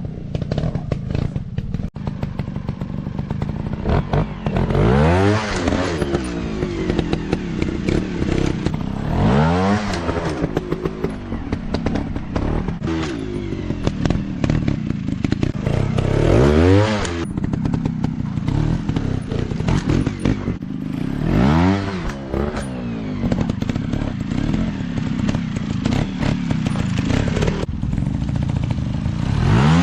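Dirt bike engines running on a practice track, revving up and dropping back about five times, roughly every five to six seconds, with clattering and knocks throughout.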